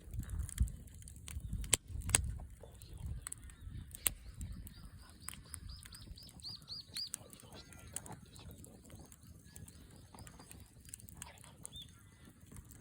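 Wood fire crackling in a Coleman Fireplace 3 fire pit, with a few sharp pops in the first seconds. Midway, an animal call: a quick series of about a dozen high chirps over three seconds, growing louder.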